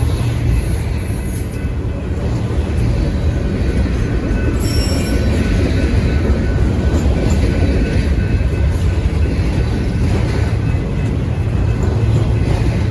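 Train passing, a loud, steady rumble of wheels on rails.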